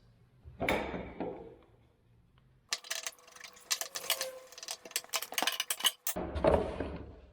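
Metal clinking and rattling as hydraulic hose fittings and tools are handled: a quick run of sharp clicks and jingles for about three seconds in the middle, with duller knocks about a second in and again near the end.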